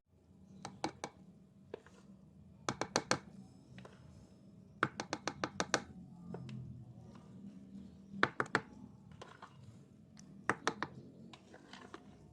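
Kitchen utensil tapping against a container, in five quick clusters of sharp clicks of three to six taps each.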